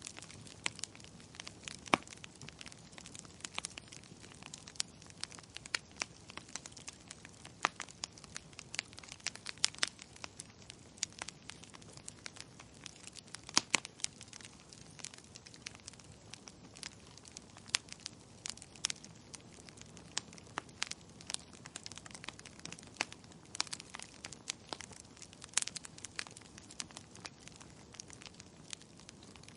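Wood fire in a fireplace crackling, with irregular sharp pops and snaps of varying loudness over a low steady hiss.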